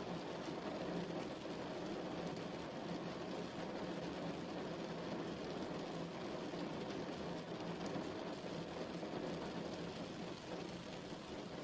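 Steady rain falling, a continuous even hiss with fine patter of drops.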